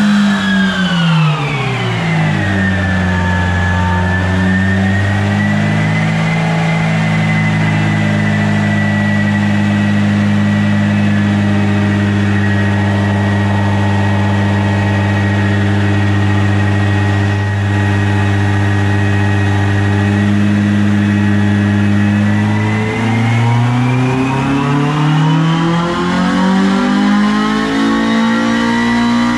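Honda Civic Type R EP3's K20 four-cylinder engine running through a 4-2-1 decat manifold and Spoon N1 back box. The engine note falls over the first few seconds, holds at a steady speed for about twenty seconds, then climbs again near the end.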